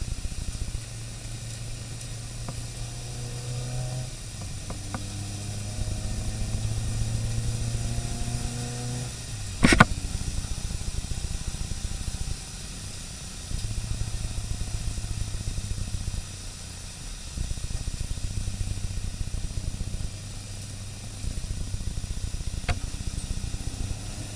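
Car engine heard from inside the car, accelerating with rising revs and easing off again every few seconds. A single sharp knock about ten seconds in.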